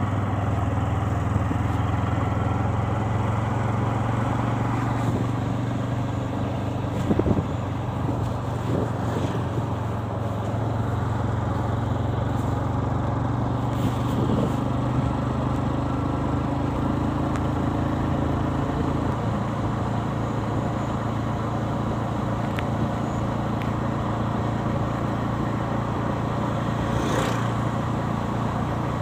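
Motorcycle engine running steadily while riding, its note shifting a few times along the way.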